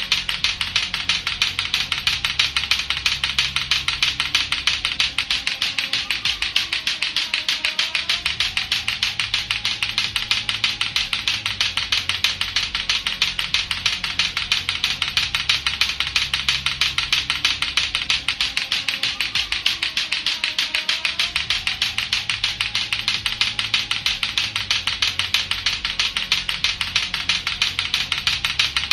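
Latto-latto clacker toy: two hard plastic balls on a string knocking against each other in a fast, even, unbroken run of clacks.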